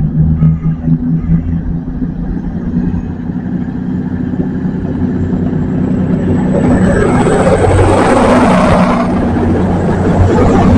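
Diesel train at a station platform: a steady low engine hum, with the rumble of a train growing louder from about halfway through and a thin high whine from the rails or wheels.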